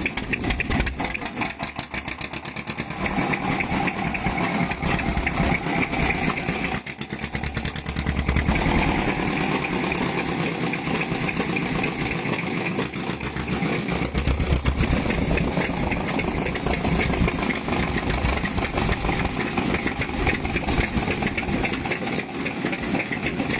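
Vintage Japanese stationary kerosene engine running with a rapid, even firing beat.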